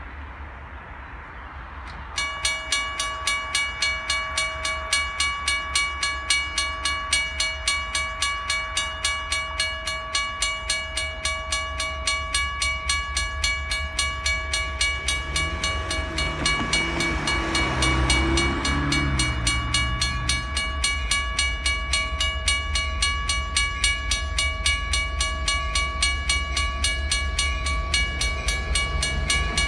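A WRRS mechanical railway crossing bell starts ringing about two seconds in, striking at a fast, even pace with a steady ringing tone: the crossing signals have activated for an approaching train. From about halfway through, a lower sound from the approaching locomotives comes in under the bell for a few seconds.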